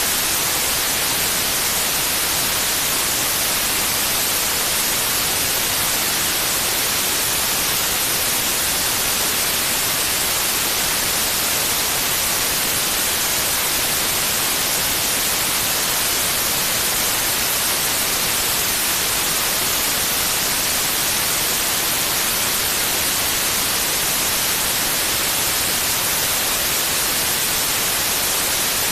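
Steady white noise: an even, unchanging hiss, brightest in the high frequencies, played continuously as a sleep aid for babies.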